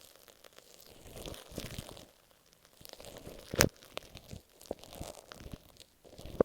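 Masking tape stuck over an earphone microphone, scratched and handled close up: irregular crinkling, tearing sounds with a sharp click about three and a half seconds in and another at the very end.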